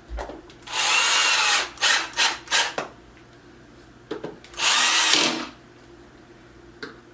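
Cordless drill-driver driving assembly screws: a run of about a second, three short trigger bursts, then another run of just under a second.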